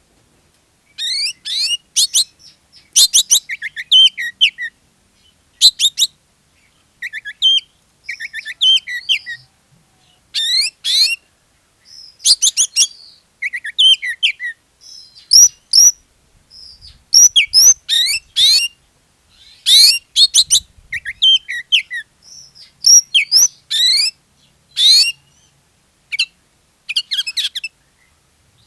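Oriental magpie-robin (kacer) in full 'gacor' song: loud phrase after phrase of rapid, high chirps, trills and whistles, each burst a second or so long with short pauses between. Song of this kind is played as a lure to set other magpie-robins singing.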